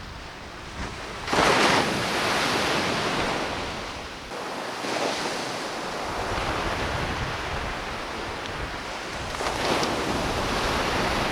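Waves breaking on the shore with a steady wash of surf: one loud break about a second and a half in and another swell near the end, with wind buffeting the microphone.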